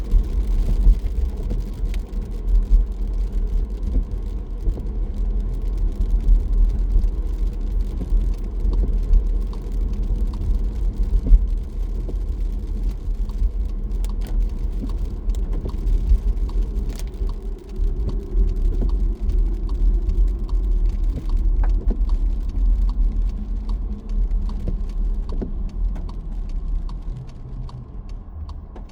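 Car driving on a rain-wet road: a steady low rumble of tyres and engine, with scattered faint ticks. It gets quieter over the last few seconds.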